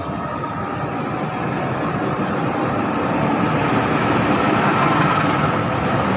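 Passenger train running past below on steel rails, its rumble growing louder as it approaches and passes under. Loudest about five seconds in.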